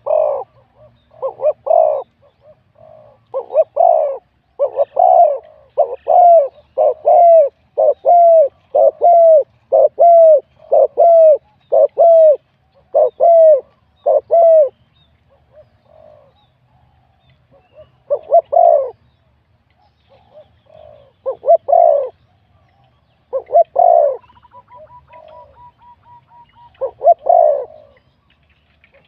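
Spotted dove cooing: a long run of short coos, about one a second, then a pause of a few seconds and more scattered coos.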